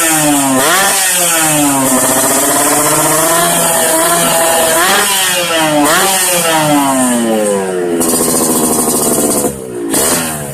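Yamaha RX-King's two-stroke single-cylinder engine revved repeatedly through an under-frame racing expansion-chamber exhaust, its pitch climbing and falling with each blip of the throttle. Near the end it drops back and gives a few short, quicker blips.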